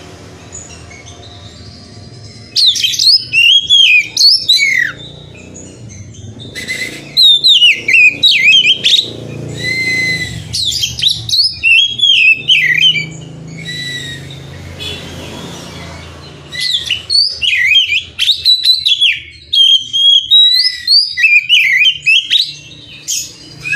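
Oriental magpie-robin (kacer) singing in loud bouts of rapid, varied whistled phrases with short pauses between, over a faint low hum. The vigorous song is the kind played to provoke other kacer into singing.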